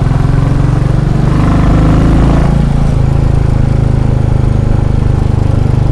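Royal Enfield Classic 350's single-cylinder engine running close by with a fast, steady thudding pulse, swelling slightly about one to two seconds in.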